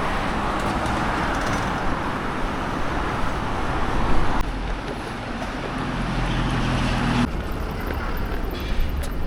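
Steady rushing vehicle noise over a low rumble. A low, even engine hum comes in past the middle and cuts off abruptly.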